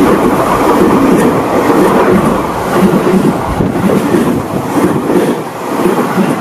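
Electric commuter train passing at close range, its wheels rumbling loudly along the rails.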